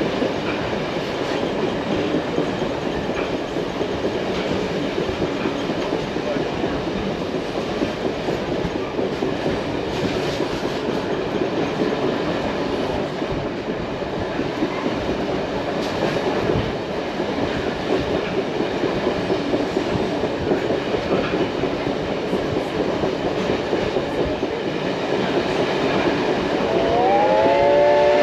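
Passenger train rolling along the track behind the Reading T-1 4-8-4 steam locomotive, with a steady rumble and wheel clatter. Near the end the locomotive's steam chime whistle starts: several notes that slide up in pitch together and then hold as one chord.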